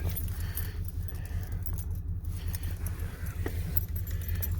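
Ford/International IDI V8 diesel engine idling shortly after a cold start: a steady low, pulsing rumble with a light metallic clatter on top.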